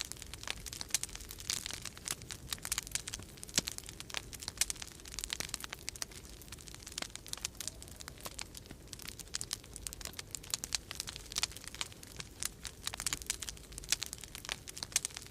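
Wood fire crackling in a fireplace: dense, irregular pops and snaps, some sharper than others, over a steady low rumble.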